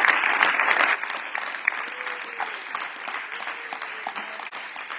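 Audience applauding, loud for about the first second, then thinning out and fading.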